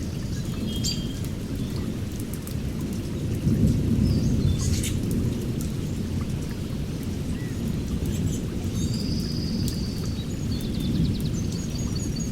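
Heavy rain pouring steadily over a continuous low rumble of thunder, which swells about four seconds in. Scattered drops tick sharply on a surface.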